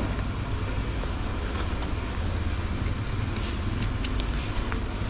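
Steady low rumble of a running vehicle engine with road noise, and a few faint clicks.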